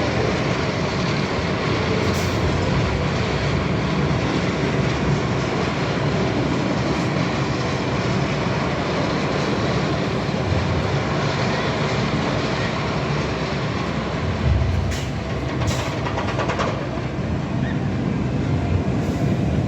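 Hyperia, a Mack Rides hyper coaster, running an empty test train over its track: a steady rumbling rail noise with a few short clicks about three-quarters of the way through.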